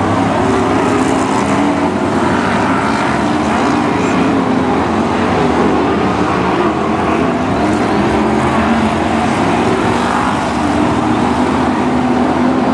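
Several BriSCA F1 stock cars' V8 engines running together around the oval: a loud, steady mix of engine notes that rise and fall slightly with no break.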